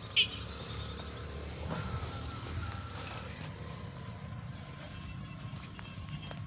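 Air rifle firing once: a single short, sharp crack just after the start, over a steady low outdoor rumble.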